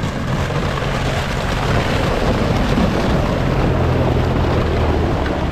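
A 4x4 off-roader driving through a frozen water crossing, its engine running with a steady low note under a loud wash of splashing water and breaking ice. It gets louder about two seconds in.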